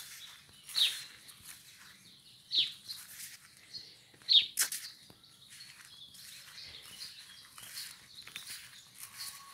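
A bird calling, a short sharp note falling in pitch, given three times a little under two seconds apart in the first half, the last one loudest. Under it runs a soft rustle of footsteps through grass.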